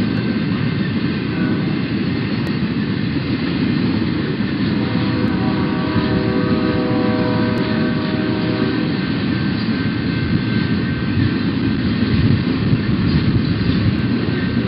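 BNSF freight train passing, a steady heavy rumble with a faint humming tone that fades in and out.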